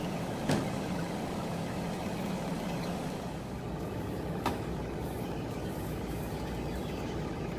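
Steady low machine hum, with two sharp clicks: one about half a second in, another about four and a half seconds in.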